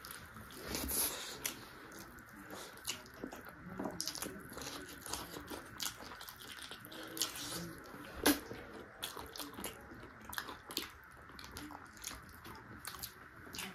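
A person chewing and biting into chicken feet: a run of short, sharp clicks at uneven intervals, the loudest about eight seconds in.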